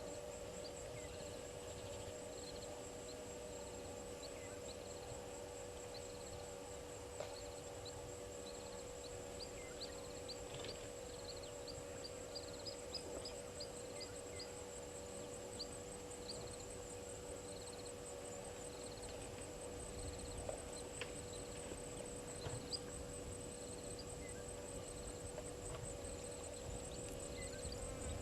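Waterhole bush ambience: a steady, high insect-like trill throughout, with groups of short repeated chirps and, around the middle, a quick run of falling whistled calls. A steady low hum and a few faint clicks lie beneath.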